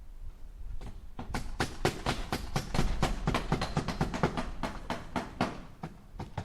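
Hammer striking nails into wood in a fast run of blows, about five a second, starting about a second in and easing off near the end.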